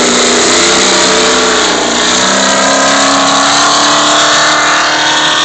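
Desert race truck's engine running loud at high revs as it passes close by, its pitch climbing steadily as it accelerates, over a rush of road and wind noise.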